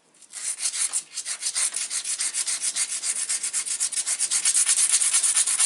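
A small dacite arrowhead (bird point) being ground against an abrading stone: rapid, steady back-and-forth rubbing strokes of stone on stone, many to the second. It begins a moment in, with a brief pause about a second in.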